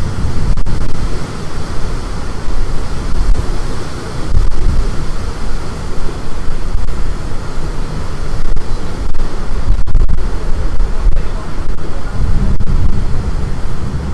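Storm-force wind buffeting the microphone: a heavy low rumble that rises and falls in gusts, over the wash of rough water on the bay.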